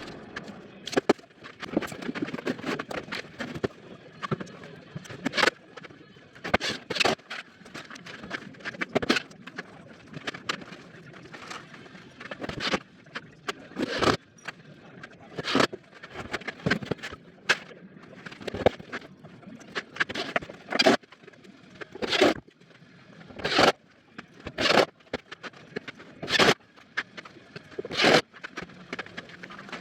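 A long run of short, sharp knocks and brief bursts, roughly one a second and irregular, from fixing timber framing and OSB boards.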